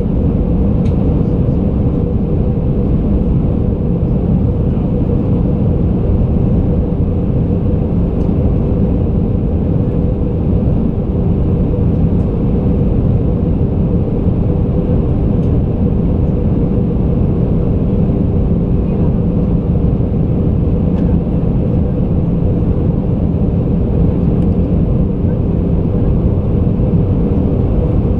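Airbus A320 cabin noise: a steady, loud rumble of engines and airflow with a constant low hum running through it.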